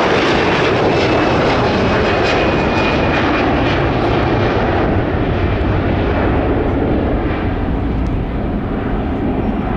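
Jet airliner engines running loud as the aircraft passes close by, with a faint high whine that sinks slightly in pitch; the noise eases off gradually toward the end.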